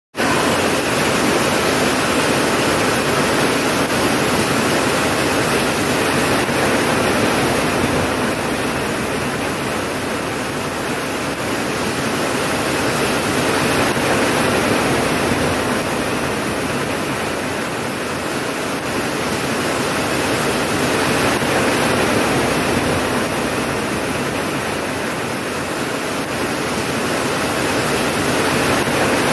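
Steady rain, a dense even hiss that slowly swells and eases every several seconds.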